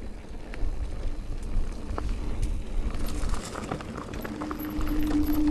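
Electric mountain bike riding over a dirt trail: tyres rolling with scattered clicks and knocks from stones and roots, over a low rumble of wind on the microphone. A steady hum comes in about four seconds in.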